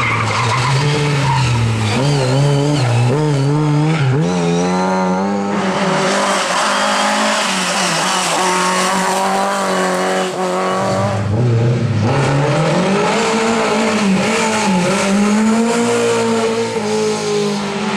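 Rally car at full attack: its engine revs rise and fall repeatedly through gear changes and lifts, with tyres skidding and squealing, the hiss heaviest in the middle stretch.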